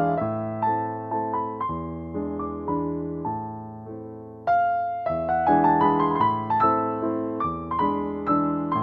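Background piano music: gentle notes struck in a steady flowing pattern, thinning out for a few seconds and coming back fuller and louder about four and a half seconds in.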